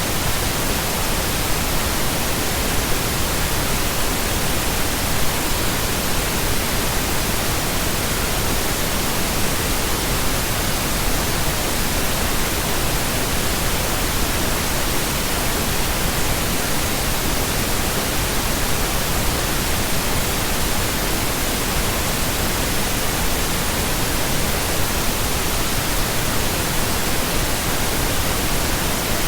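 Steady synthetic pink noise: an even, unchanging hiss across the whole range of pitch.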